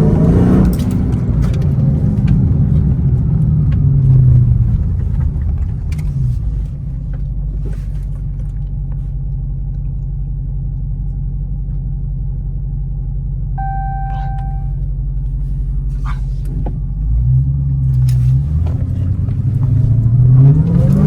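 Supercharged 6.2-litre Hemi V8 of a 2023 Dodge Charger Hellcat accelerating at the start, then settling into a steady low exhaust rumble. About two-thirds through there is a short electronic beep, and near the end the engine revs up again through rising pulls.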